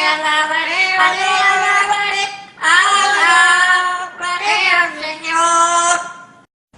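A high voice singing held, wavering notes in three phrases, each breaking off, then stopping abruptly near the end.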